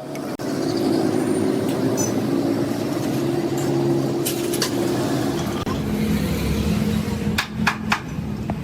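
An engine running steadily, with a few sharp clicks or knocks near the end.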